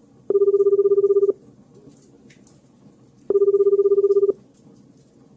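Japanese-style telephone ringback tone: a low, fast-warbling buzz that sounds for about a second, twice, three seconds apart. It is what a caller hears while the other phone is ringing unanswered.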